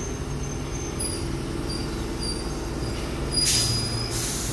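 Sydney Trains Tangara electric train running slowly past the platform: a steady rumble with faint high squeals from the wheels on the rails. Two short loud hisses come near the end.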